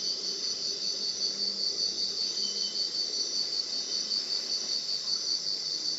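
Chorus of rainforest insects at night, crickets or katydids: a steady, fast-pulsing high trill with fainter trills layered above it.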